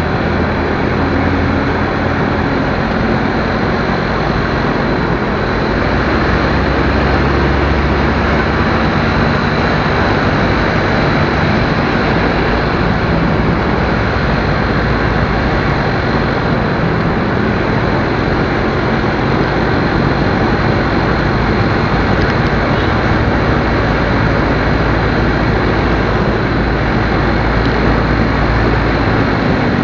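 Motorcycle on the move: the engine runs steadily under loud, even wind and road noise.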